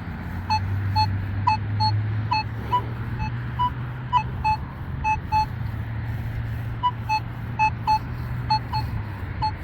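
Nokta Legend metal detector sounding a string of short, irregular beeps at about 1 kHz as the coil sweeps back and forth over a faint, deep target that reads at full depth. A low steady hum lies underneath and stops near the end.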